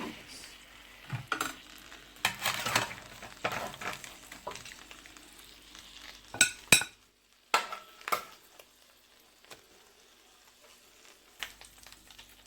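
Baked chicken thighs sizzling and crackling in their pan just out of the oven, with scattered clicks and scrapes of kitchen utensils. The sound cuts out abruptly for about half a second around seven seconds in, then the faint crackling resumes.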